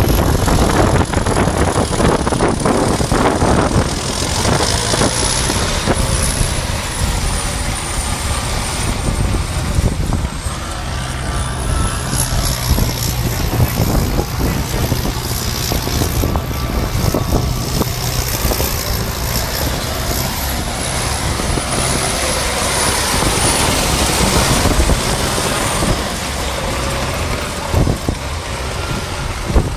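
DT-75 crawler tractor's diesel engine working hard under load as the tractor turns and slides on loose soil. The engine noise is loud and continuous, with a thin high whine that rises and falls and a few brief knocks.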